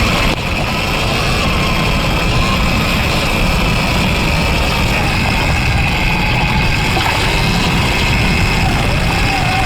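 Surron Ultra Bee electric dirt bike's motor whining under way, its pitch wavering up and down with the throttle, over a steady low rumble.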